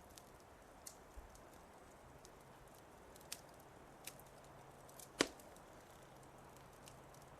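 Wood fire crackling faintly: scattered sharp pops and snaps at irregular intervals, one louder pop a little past five seconds in.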